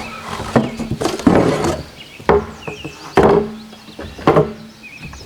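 Wooden boards knocking and clattering against each other as pieces of hardwood are handled, in several sharp hollow knocks about a second apart.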